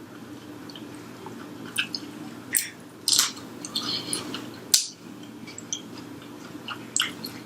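Close-up chewing and biting of fried chicken, with wet mouth sounds and irregular crunchy crackles, the loudest just past three seconds and just before five seconds in.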